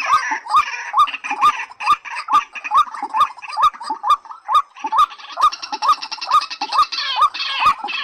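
Calls of white-breasted waterhen and watercock: short rising notes repeated about twice a second with sharp clicks, and a fast rattling trill in the middle.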